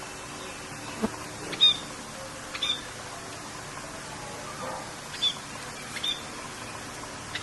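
Short high bird chirps, about four, each dropping quickly in pitch, over a steady hiss of rain.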